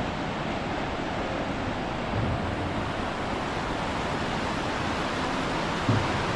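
Steady rushing noise, with two brief low bumps: one about two seconds in and one near the end.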